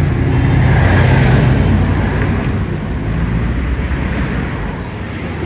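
A motor vehicle's engine runs close by with a low rumble, loudest about a second in and then easing off gradually.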